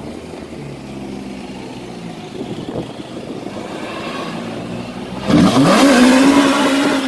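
Mk1 Ford Escort's engine running at low revs, then about five seconds in revved hard and held high as the car launches with its rear wheels spinning and smoking. It is loud and drops away suddenly at the end.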